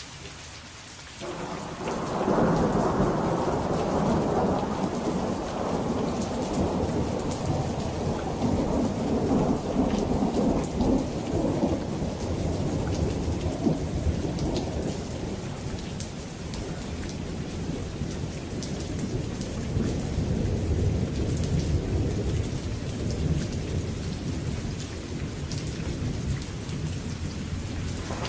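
Steady rain falling, with a long rolling thunderclap that breaks in suddenly about a second in, is loudest for the next few seconds and slowly rumbles away over the following twenty.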